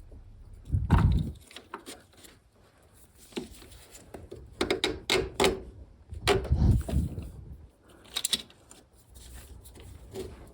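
Irregular knocks, clunks and clicks, as of tools and parts being handled, with heavier thumps about a second in and again past the middle.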